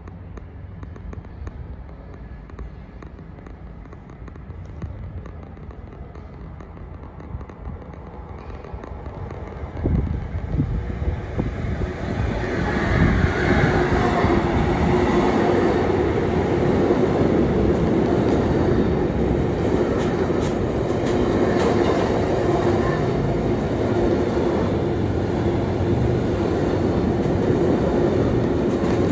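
Freight train of flat wagons loaded with tank containers passing through at speed. A low rumble as it approaches becomes loud about ten seconds in, then the steady rolling noise of the wagons' wheels on the rails continues, with a constant tone running through it.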